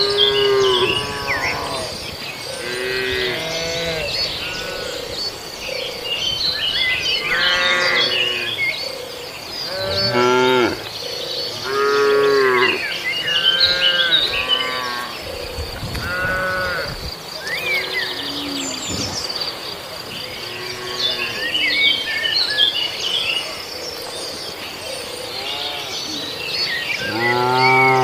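Cattle mooing over and over, a call every couple of seconds, several animals overlapping. Behind them runs a steady high buzz of insects, with birds chirping.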